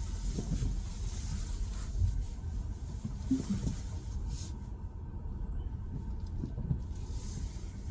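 Low, steady rumble inside the cabin of a Tesla Model Y electric SUV as it creeps slowly to straighten up in a snow-covered parking spot, with a few faint ticks.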